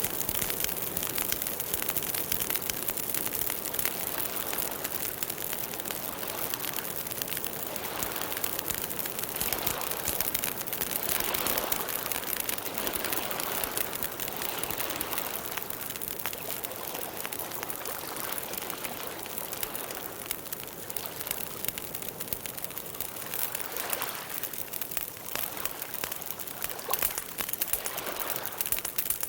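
Campfire burning, the wood crackling and popping steadily over a continuous hiss, with a few soft swells of flame.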